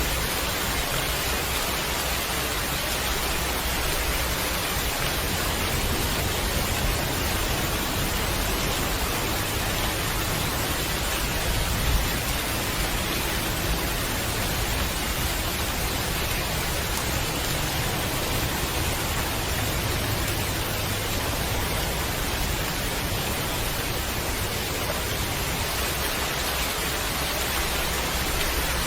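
Steady heavy rain falling, an even, dense hiss with no pauses.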